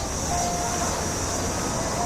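Steady low engine rumble with a constant high hiss.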